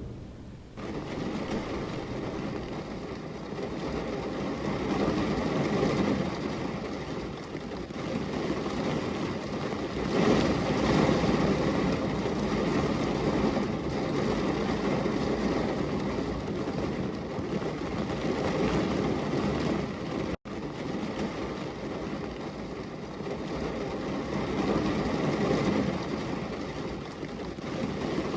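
A thunderstorm: heavy rain with long, rolling rumbles of thunder that swell and ease every few seconds. The sound comes in abruptly just under a second in and drops out for an instant about twenty seconds in.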